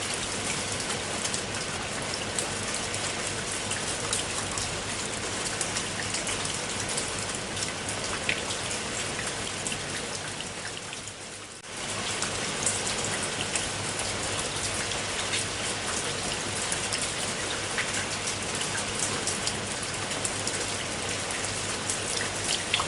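Steady rain, with many individual drops pattering on a surface. About halfway through, the rain fades down for a moment, then comes back suddenly at full level.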